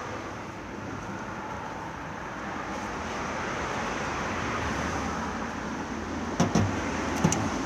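Road traffic noise: a steady rush that swells as a vehicle goes by and then eases off, with a few short sharp clicks near the end.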